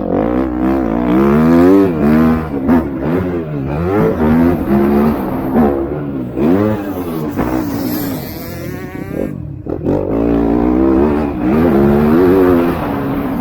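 Motocross bike engines revving hard, their pitch climbing and dropping again and again as riders accelerate and shift. Several bikes overlap, one higher-pitched engine passing about two-thirds of the way through.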